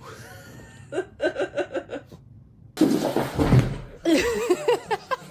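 A person laughing in a quick run of about six short bursts, then a sudden cut; after it a louder, noisier stretch with wavering, voice-like pitched sounds.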